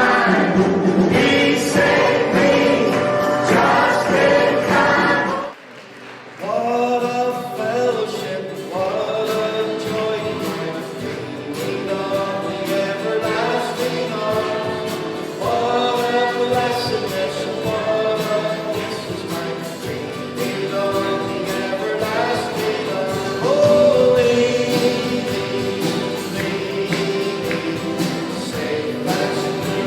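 Choir singing Christian gospel music. The singing breaks off suddenly about five seconds in, then picks up again a second later and carries on.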